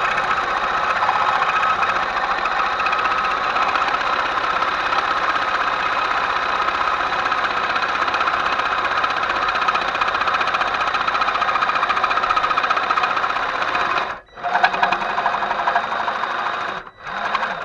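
A handheld power tool running hard and steadily with a fast rattling rhythm, stopping briefly about 14 seconds in, then running again in two shorter bursts before cutting off near the end.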